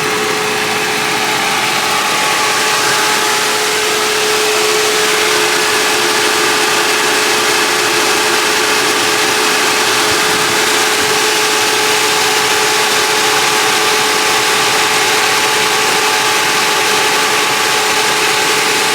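2017 Chevrolet Camaro's electric radiator cooling fans running with the engine idling: a steady rush of air with a steady whine through it. The fans are running as if the engine is hot while the temperature gauge reads cold, which could be a faulty sensor.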